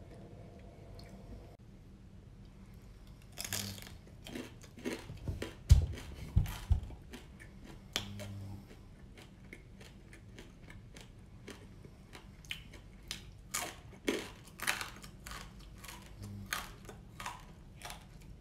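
Close-up crunching and chewing of small flour-coated, deep-fried crabs eaten shell and all: irregular runs of crisp crunches starting a few seconds in, with a few heavier thumps of biting around the middle.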